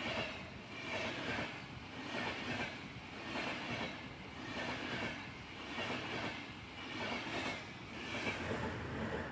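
Train running past on rails: a steady rolling rumble with a regular clickety-clack of wheels over rail joints, repeating about once a second.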